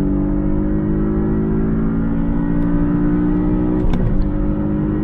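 Porsche 718 Boxster S's decatted 2.5-litre turbocharged flat-four under full-throttle acceleration, its pitch climbing steadily, then a quick manual upshift with a drop in pitch about four seconds in before it climbs again.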